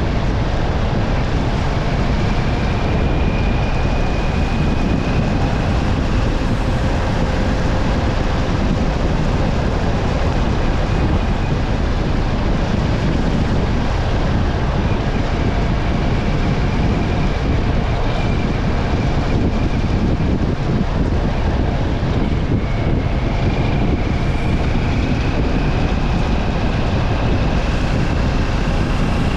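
Steady road noise of a vehicle driving on a wet road after heavy rain: continuous tyre hiss over a low rumble, with faint whining tones, one slowly rising in pitch near the end.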